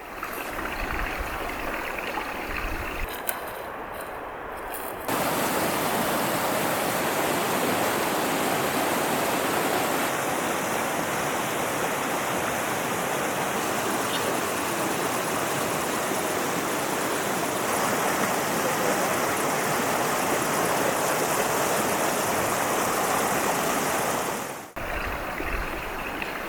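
Mountain river rushing over rocks: a steady hiss of flowing water that gets louder about five seconds in and dips briefly near the end.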